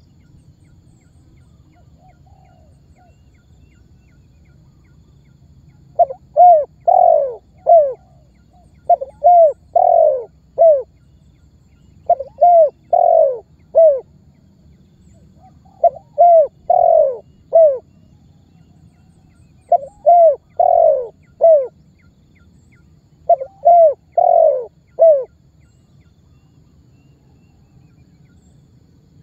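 Spotted dove cooing: six repeated phrases of four or five short coos each, about one phrase every four seconds, after a faint short call near the start. A low background hum sits underneath.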